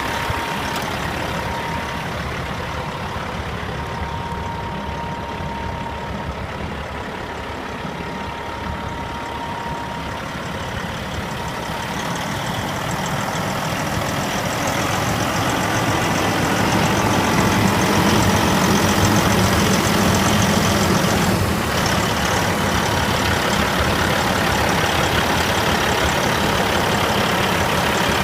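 Caterpillar C15 inline-six diesel engine of a Western Star 4900SA highway tractor idling steadily. It grows louder around the middle and then holds steady.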